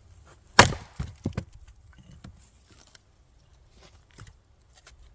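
Axe chopping firewood: one sharp, loud crack of the blade striking and splitting the wood about half a second in, followed by a few lighter wooden knocks.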